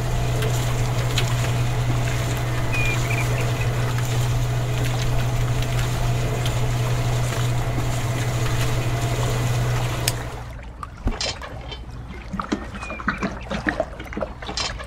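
Small motor of a miniature concrete mixer running steadily, turning its drum of wet concrete, with a low hum that stops abruptly about ten seconds in. Then the drum is tipped and wet concrete pours into a toy wheelbarrow, with small irregular clicks and scrapes.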